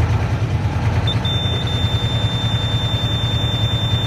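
Mack semi truck's 400 HP turbo diesel engine running with a steady, pulsing low rumble. A thin, high-pitched steady beep tone comes in about a second in and holds almost to the end.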